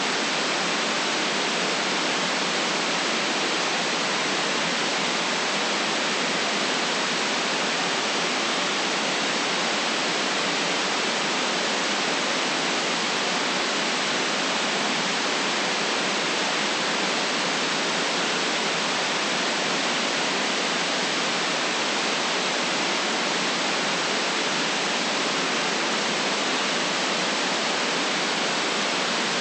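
Steady, unchanging hiss of generated white noise, with no deep rumble and no other sounds in it.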